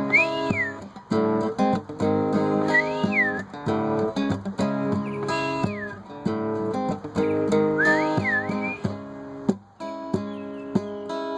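Acoustic guitar playing chords, with a high whistle that rises and falls four times, about every two and a half seconds.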